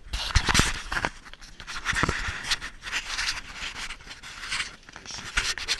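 Irregular scraping, rubbing and knocking noises, with a loud cluster of knocks about half a second in and another around two seconds in.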